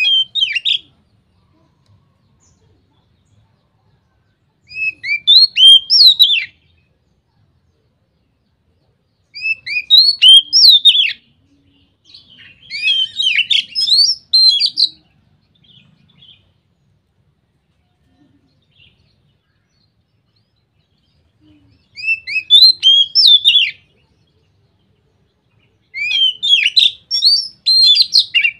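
Oriental magpie-robin (kacer) singing in the loud, open 'ngeplong' style. It gives about six separate phrases of quick whistled notes, each a second or two long, with pauses of a few seconds between them.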